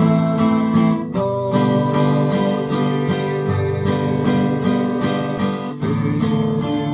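Acoustic guitar strummed in a 3/4 waltz rhythm, several strokes a second, with chord changes about a second in and again near six seconds.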